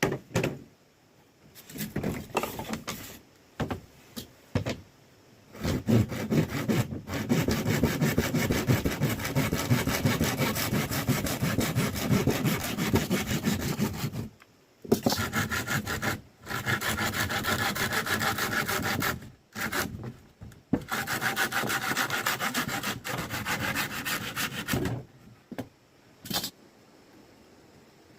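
Hand saw cutting through wood, in steady back-and-forth strokes that come in three long runs with short breaks between them. A few short handling knocks come before the sawing starts.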